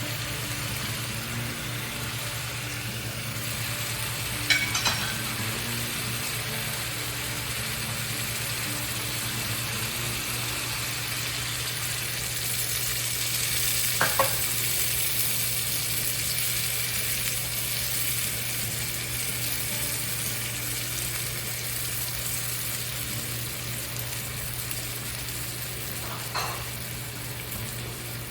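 Food sizzling steadily in hot olive oil in a heavy skillet, with a few short sharp clicks at intervals.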